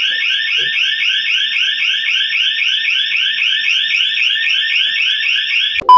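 Electronic alarm ringing loudly and steadily with a rapid warble, about six pulses a second. It cuts off just before the end, where a loud high beep begins.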